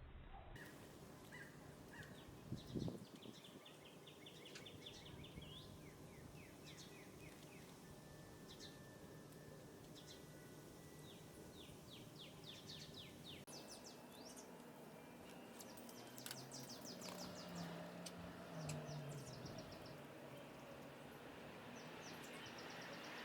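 Small birds chirping and trilling in rapid runs of short high notes over quiet outdoor ambience. There is a brief low thump about three seconds in, and a low drone in the second half.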